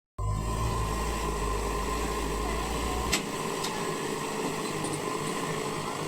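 Diesel engine idling with a steady low rumble; about three seconds in there is a sharp click and the deep rumble drops away, leaving a thinner steady mechanical hum.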